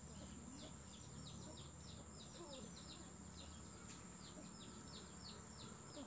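A small bird chirping over and over, short falling notes about three or four a second, with a faint steady high-pitched whine behind it.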